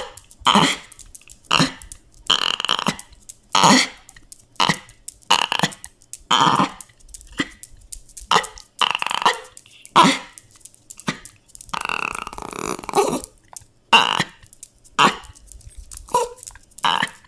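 A dog whining and crying in short, repeated cries, one after another, with one longer drawn-out whine about two-thirds of the way through.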